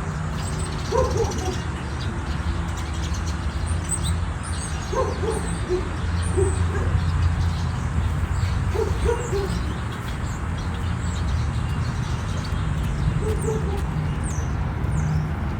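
A bird calling in short, low, hooting notes, a few at a time, over a steady low rumble, with faint high chirps.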